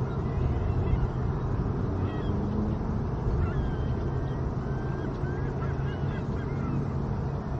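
A steady low rumble with faint, short bird calls chirping and wavering over it, several close together about two-thirds of the way through.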